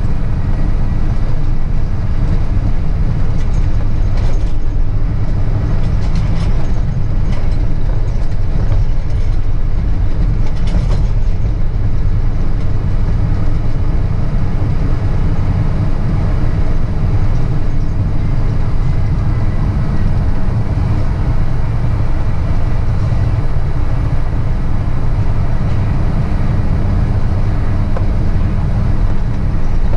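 Truck's diesel engine running steadily, a continuous low rumble with a few faint clicks in the first half.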